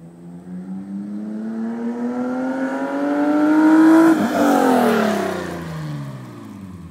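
BMW E36 325is straight-six running with no exhaust fitted, accelerating: the note climbs steadily and grows louder for about four seconds, drops suddenly in pitch at its loudest as the car passes, then falls away and fades.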